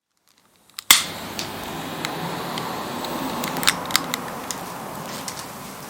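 Wood fire burning: a steady hiss with sharp crackles and pops from the burning wood. The sound starts suddenly about a second in with a loud crack.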